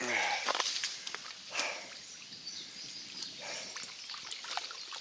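Footsteps crunching on a rocky trail on a steep climb. At the very start there is a short breathy sound falling in pitch.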